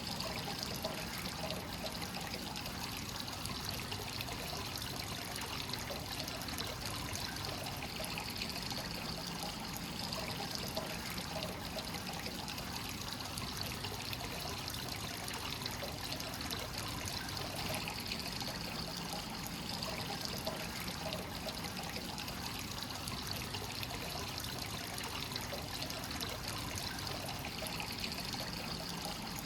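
Hot-spring water from a free-flowing source pouring and trickling steadily into a bath, an even, unbroken splashing flow.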